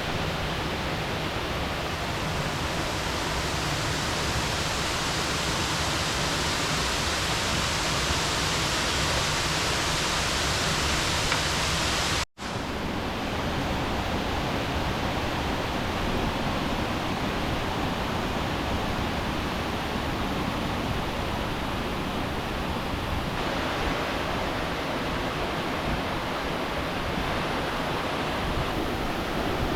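Steady rush of flowing river water, an even loud hiss with no distinct events. It drops out for a split second about twelve seconds in, then carries on slightly darker.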